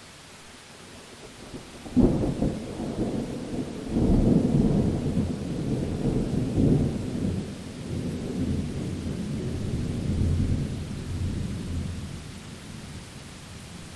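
Thunder during a steady rainstorm. A sudden crack comes about two seconds in, then rolling rumbles swell again and slowly die away, over a constant hiss of rain.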